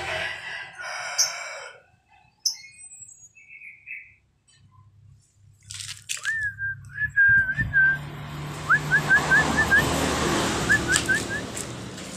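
A pet starling (jalak) whistling. A drawn-out whistle wavers in pitch, then comes two quick runs of short upward-sweeping chirps, over a steady rushing noise.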